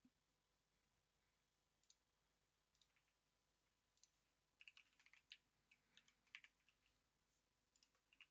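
Faint computer keyboard typing: scattered single key clicks, then a quick run of keystrokes from about halfway in.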